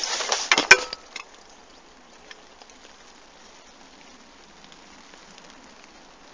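Close rustling and handling noise with one sharp click in the first second, then a faint steady hiss of rain with scattered light ticks of drops.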